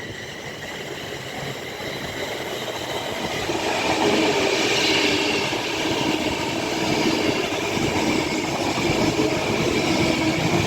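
Class 390 Pendolino electric train coming through the station, its running noise building over the first few seconds and then holding steady, with a steady whine over the rumble.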